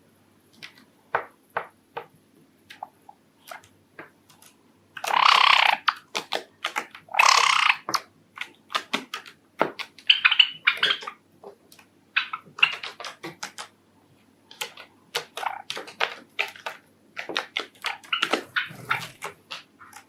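Pet Java sparrows: many short, sharp ticks and chirps, with two louder rustling bursts about a second long around five and seven seconds in.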